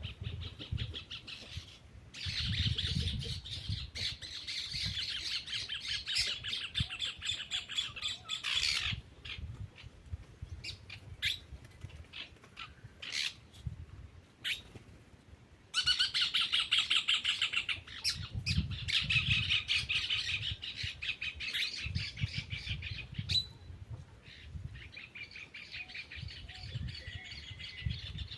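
Birds chattering in long, rapid trills, each lasting several seconds, with short scattered chirps in the gaps between them.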